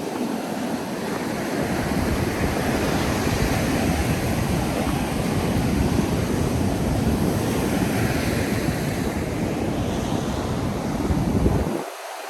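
Ocean surf breaking and washing up a sandy beach as a steady rush, with wind rumbling on the microphone that drops away briefly near the end.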